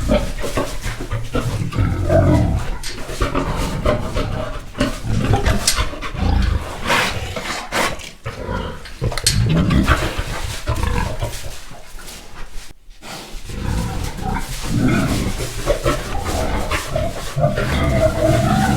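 A boar and a sow penned together, grunting in deep, irregular runs, with a few higher-pitched squeals mixed in.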